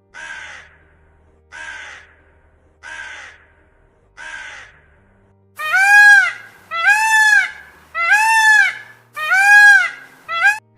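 A bird's repeated loud calls: four short calls about a second and a half apart, then five louder, longer calls that rise and fall in pitch.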